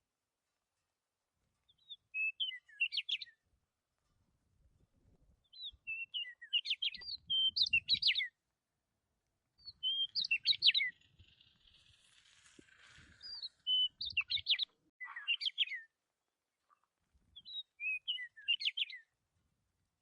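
A songbird singing in repeated phrases of quick chirps and trills, five phrases about four seconds apart, with a faint low rumble of wind in between.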